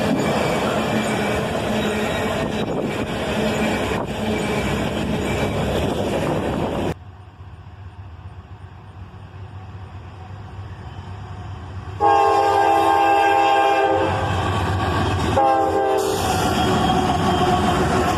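Diesel freight train rumbling past, its locomotives running under power, then after a sudden drop to a quieter stretch a locomotive air horn sounds one long blast of about two seconds and a short one, and the rumble of the passing train returns.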